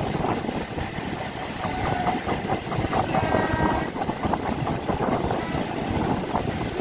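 Electric multiple-unit local train running at speed, heard from its open doorway: a steady rumble with wheels clattering over the rail joints.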